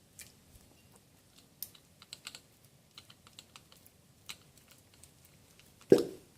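Irregular light clicks and taps of tools or parts being handled, then one loud knock about six seconds in.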